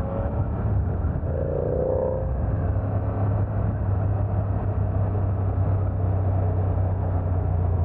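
BMW F900R's parallel-twin engine running steadily with a low, even drone, with a brief rising tone about two seconds in.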